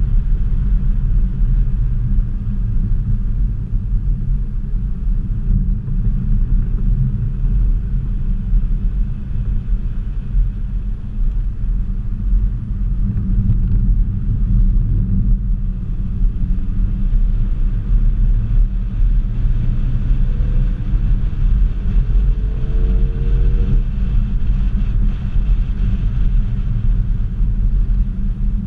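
Ford Focus ST's turbocharged four-cylinder engine and road rumble heard from inside the cabin at track speed, a steady low drone. The engine note climbs about two-thirds through as the car accelerates.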